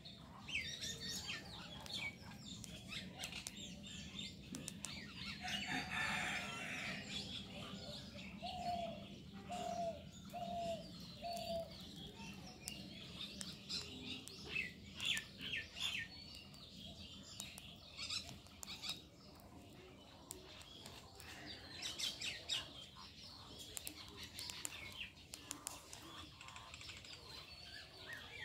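Small birds chirping on and off, with a short run of four lower notes about nine to twelve seconds in.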